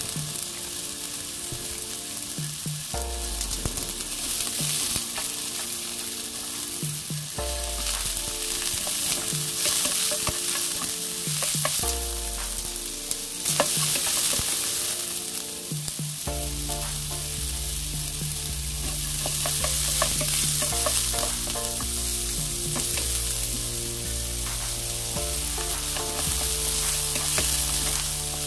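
Pieces of beef large intestine (daechang) sizzling as they fry dry in a nonstick wok, with occasional scrapes and clicks of a wooden spatula stirring them while the fat renders out. Background music with a bass line plays underneath.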